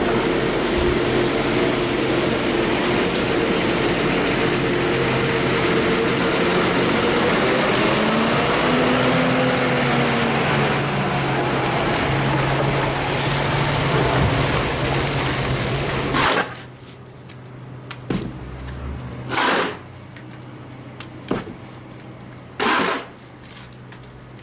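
A vehicle engine running steadily on the move, its note dipping and rising again about a third of the way in. It then cuts off abruptly to a much quieter background, with three short rushes of noise.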